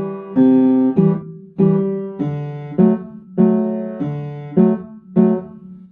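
Piano left-hand block chords struck in an even rhythm, about one every half second or so, each ringing and decaying before the next: C major chords followed by D major chords, played as a lesson demonstration. The last chord fades out near the end.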